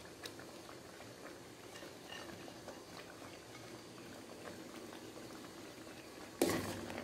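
Semolina halwa bubbling and crackling softly as it cooks in the pan, with a short louder scrape about six and a half seconds in.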